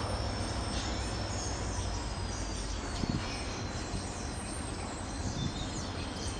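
Low rumble of a spoil train's wagons rolling away along the rails as its last wagon passes, easing off slightly, with a short knock about three seconds in. Faint bird chirps sound over it.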